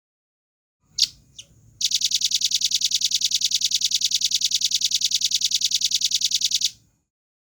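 Velvet-fronted nuthatch singing. Two sharp high notes come first, then a rapid, even trill of about ten notes a second that runs for about five seconds and stops abruptly.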